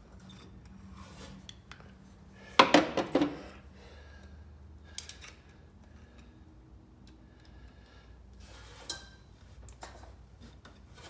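Metal hand tools and parts clinking and clattering, with a quick run of four or five sharp clanks about two and a half seconds in and a few lighter clicks later.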